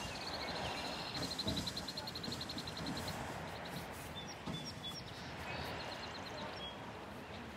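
A small bird singing a fast trill of evenly spaced high notes, about ten a second, for roughly three seconds, followed by a few scattered short chirps, over a steady background rush.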